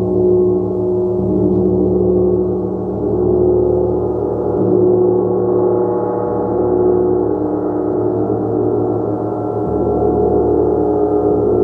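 A gong played as a continuous wash: many deep overlapping ringing tones sustained together, swelling and ebbing gently without distinct separate strikes.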